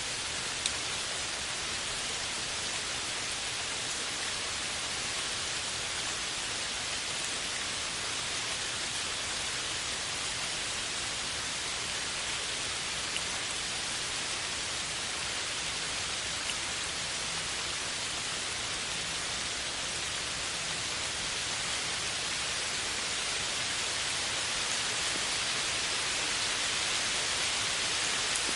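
Steady rain falling: a dense, even hiss with a few single louder drop ticks, growing slightly louder near the end.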